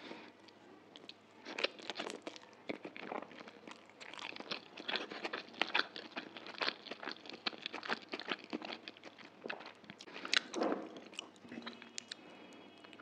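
Close-miked chewing of a mouthful of chicken chow mein noodles: a dense run of quick, wet mouth clicks and smacks, with a louder burst about ten and a half seconds in.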